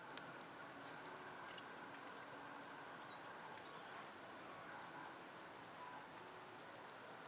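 Faint outdoor ambience in which a small bird gives two short runs of high chirps, each stepping down in pitch, about a second in and again about five seconds in.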